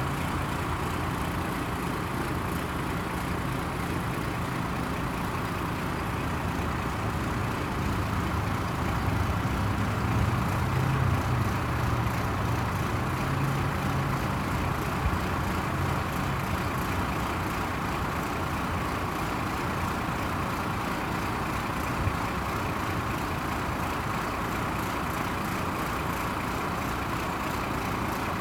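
A Ford LN7000 crane truck's engine running steadily. Its low hum grows stronger and a little louder from about 8 to 16 seconds in, then settles back.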